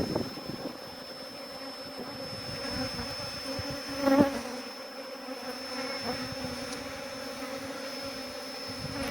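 Honeybees buzzing steadily in a mass around their freshly exposed colony, with one louder buzz swelling and fading about four seconds in.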